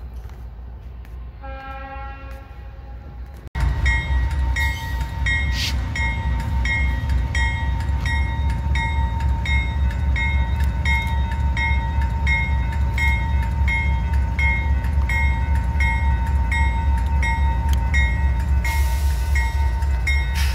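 A train horn sounds briefly in the distance. Then a Norfolk Southern diesel locomotive rumbles past close by, hauling the track geometry train, while a bell rings steadily at about one and a half strokes a second.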